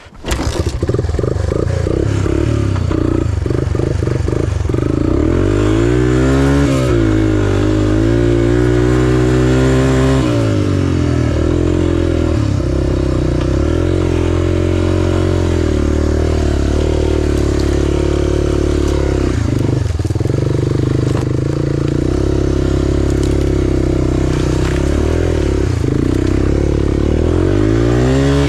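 Small off-road motorcycle or three-wheeler engine running hard, its pitch rising and falling again and again as it revs up and eases off.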